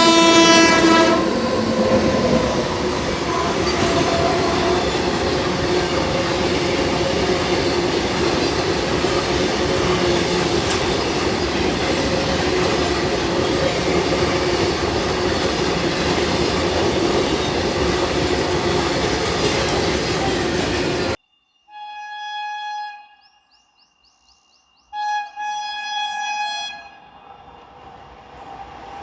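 An Indian Railways locomotive horn ends about a second in, and an express train runs through at speed with a continuous rumble and wheel clatter for about twenty seconds. After a sudden cut, a horn sounds twice more, with a pause between the blasts, and a train's noise begins to rise near the end.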